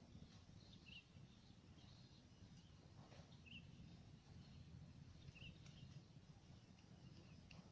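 Near silence in open fields: a faint steady low rumble, with three short faint bird chirps spaced about two seconds apart and a few faint ticks near the end.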